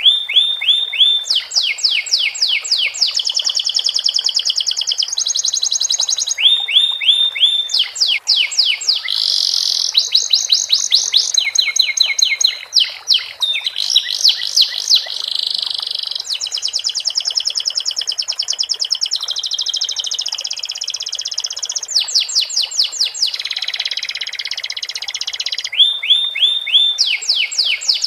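Domestic canary singing a long, unbroken song of fast trills and runs of rapidly repeated notes, switching to a new phrase every second or two; its song is filled in with sikatan londo flycatcher phrases.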